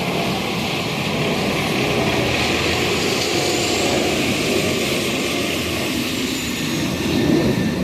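Steady, loud roar of a passing vehicle.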